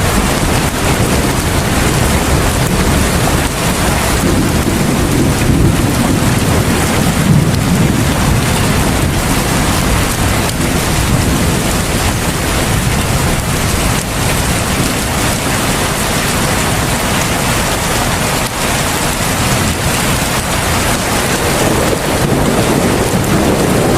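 Heavy rain falling in a steady, dense downpour, with a low rumble swelling a few seconds in.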